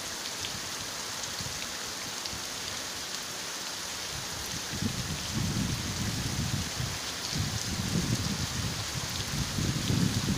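Heavy rain pouring and splashing on a flooded street, a steady hiss. A low, uneven rumble joins in about five seconds in.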